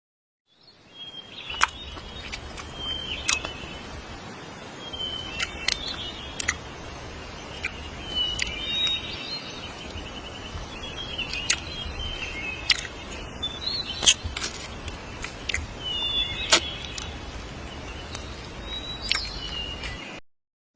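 Birds giving short, repeated calls over a steady outdoor background hiss and low rumble, with sharp clicks scattered throughout.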